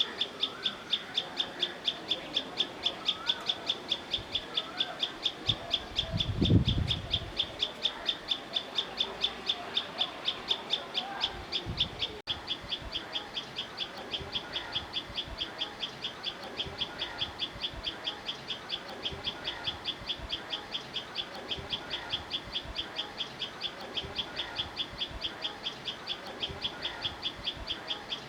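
Outdoor nature ambience: a high chirp repeated very steadily, about four times a second, with softer bird calls beneath it. A low thud or rumble about six seconds in.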